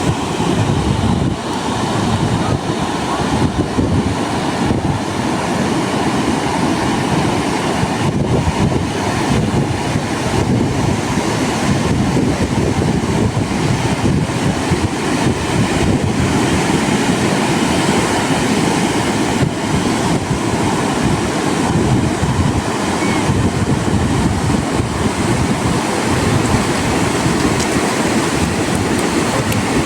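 Steady roar of wind buffeting the microphone, mixed with the rush of ocean surf.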